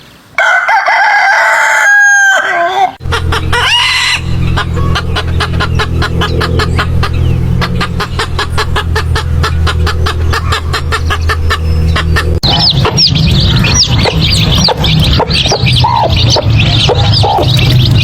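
A rooster crows once near the start. Then a hen clucks in a quick, steady run over a low steady drone, and from about twelve seconds in chicks peep rapidly in high chirps, with a few lower hen calls among them.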